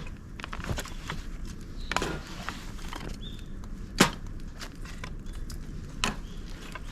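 Dry bamboo and twigs burning in a fire pit: sharp cracks and pops about every two seconds, the loudest about four seconds in, with lighter crackling between them.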